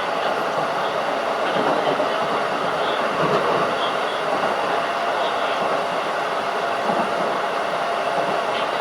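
Interior running noise of a Keikyu 1500 series field-chopper-controlled electric train: a steady rumble of wheels on rail with a faint steady tone.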